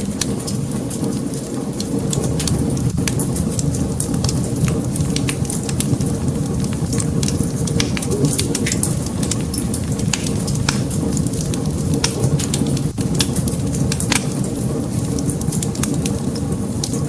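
Wood fire in a fireplace crackling: frequent sharp pops and snaps over a steady low rumble of burning.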